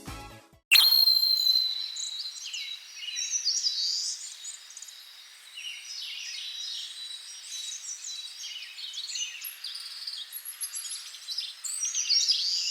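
Birds singing and chirping, many overlapping high calls. About a second in, a sudden high ringing tone starts and fades away over several seconds.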